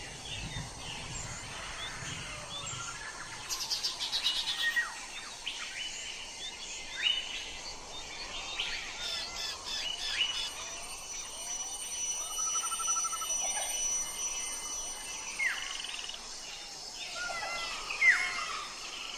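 Several wild birds chirping and whistling over one another, a busy mix of short calls and rising and falling whistles, with a few louder calls standing out.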